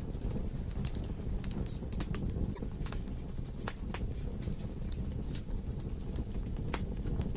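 Log fire burning in a fireplace: irregular sharp crackles and pops, several a second, over a steady low rumble of the flames.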